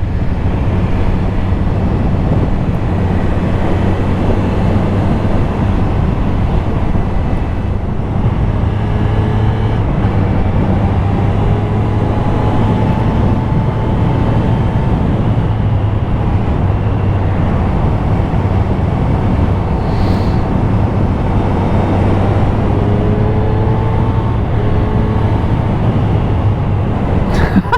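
Triumph Street Triple RS's three-cylinder engine running steadily while riding on the road, under a constant rush of wind and road noise, with a few slow rises in engine pitch.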